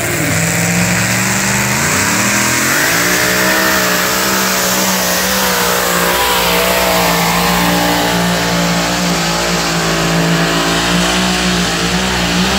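Alcohol-burning two-wheel-drive pulling truck engine at full throttle under load; its pitch climbs about two seconds in, then holds high and steady with a slight waver through the pull.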